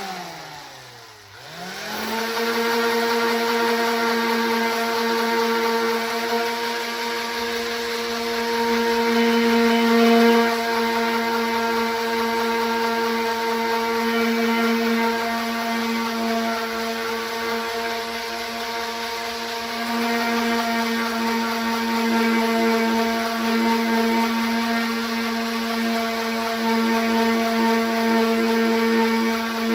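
Electric orbital sander with 120-grit paper sanding fibreglass filler on a car fender. Its motor winds down and comes straight back up to speed in the first two seconds, then runs with a steady hum.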